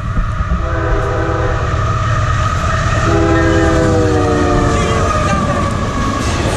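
Freight locomotive air horn sounding two blasts over the heavy rumble of the approaching train; the second blast slides slightly lower in pitch.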